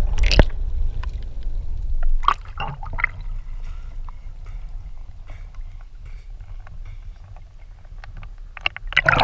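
Water splashing and sloshing over a steady low rumble, with scattered small clicks. There is a loud burst of splashing at the start and another just before the end.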